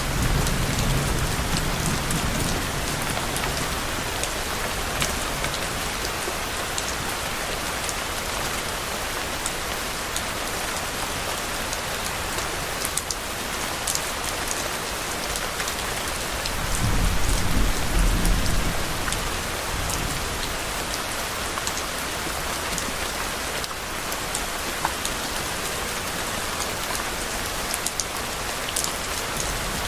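Steady rain with scattered sharp drop ticks. Low, distant thunder rumbles twice: one fades out in the first couple of seconds, and another swells and dies away about two thirds of the way through.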